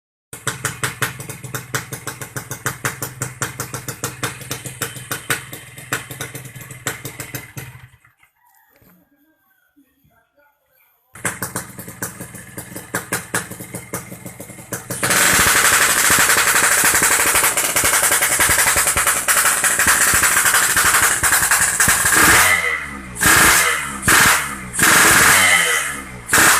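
Yamaha RX-King's 135 cc single-cylinder two-stroke engine running through a standard-style aftermarket exhaust: idling with a rapid crackling pulse, a gap of about three seconds, more idling, then held at high revs for about seven seconds and blipped in short bursts near the end.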